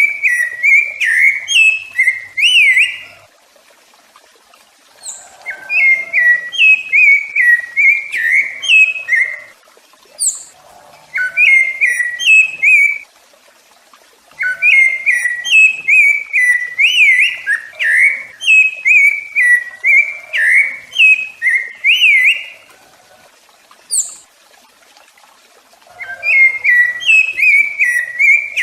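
Rufous-bellied thrush singing: bouts of fluted, whistled phrases made of quick repeated notes, each bout lasting a few seconds and separated by pauses of about two seconds.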